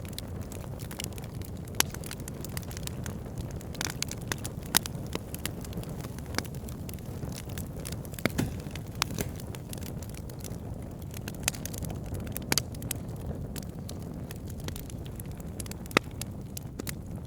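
Wood fire burning: a steady low rush of flame with frequent irregular crackles and pops from the burning logs, a few of them sharper and louder than the rest.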